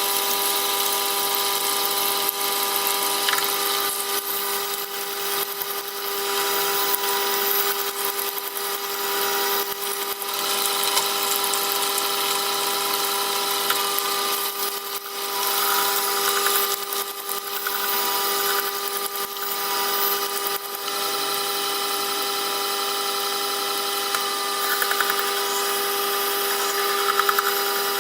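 Wet sharpening machine's electric motor running with a steady hum while a knife blade is ground on the turning water-fed stone, the grinding hiss rising and falling as the blade is moved and pressed against the wheel.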